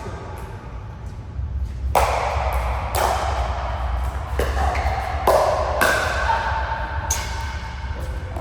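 Pickleball rally: paddles striking the plastic ball with sharp pops, about six hits roughly a second apart.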